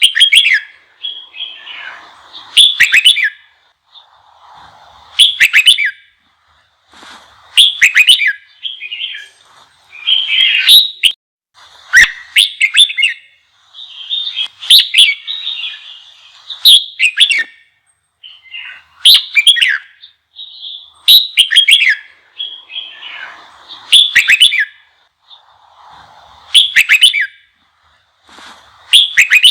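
Red-whiskered bulbul singing loud, fast, excited phrases of sharp whistled notes, repeated about every two and a half seconds with short gaps between. This is the fired-up song used to provoke other bulbuls into answering.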